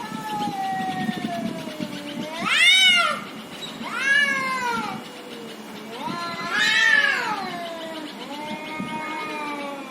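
Cats yowling at each other in a fight standoff: a long low yowl sliding slowly down in pitch, then three loud caterwauls that rise and fall, then more drawn-out yowls near the end.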